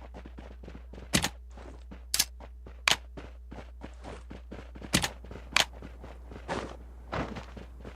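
Irregular sharp clicks and knocks, five of them louder than the rest, over a steady low hum.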